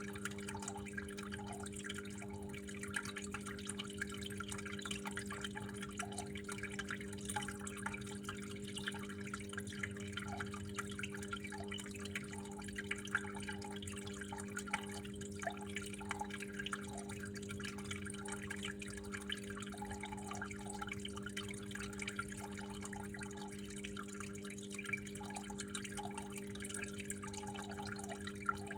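Water flowing and dripping steadily, with small irregular plops over a continuous trickle, and a steady low hum underneath.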